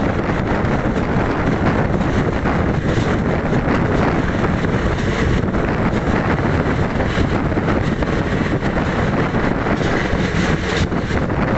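Passenger train running at speed, heard from the coach's open door or window: a steady rumble of wheels on the rails mixed with wind buffeting the microphone.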